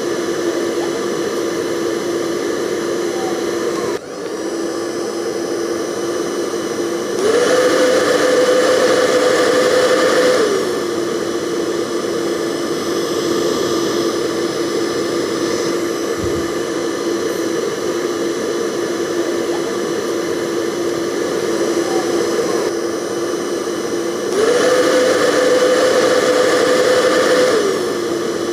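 Hair dryer running steadily with a motor whine over a rush of air. Twice, about seven seconds in and again near the end, the whine steps up in pitch and gets louder for about three seconds, then drops back to its lower, steady pitch.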